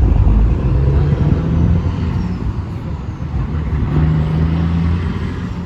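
Truck driving past close by, engine and tyre noise loudest at first and fading slowly as it goes.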